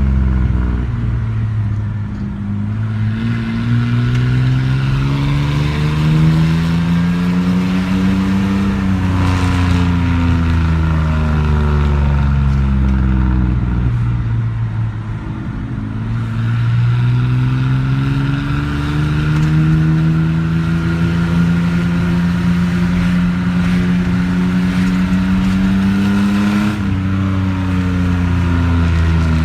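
Straight-piped Ford F-150 fuel-injected straight-six exhaust, loud and unmuffled, pulling up through the revs under acceleration. About a third of the way in it falls back off the throttle, then climbs steadily again, with a sudden drop in pitch near the end like an upshift before it pulls once more.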